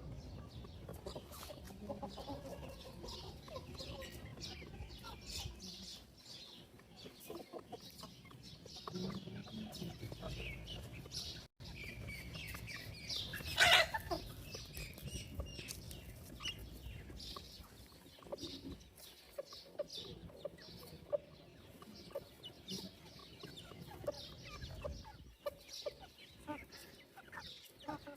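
Chickens clucking, with one loud short call about halfway through.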